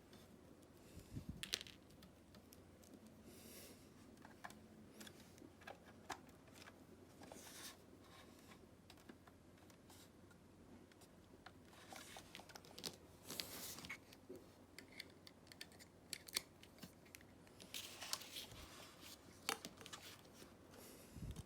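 Faint handling noises: scattered small clicks, taps and brief rustles, bunched into short clusters near the start, around the middle and near the end.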